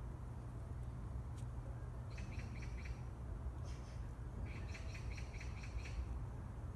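A small bird calling in quick trains of short chirps, once about two seconds in and again from about four and a half seconds, over a steady low rumble.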